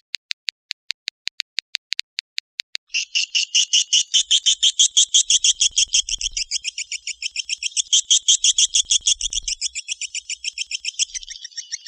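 Swiftlet calls: a run of evenly spaced sharp clicks, about seven a second, for the first three seconds, then a fast, unbroken train of high twittering chirps.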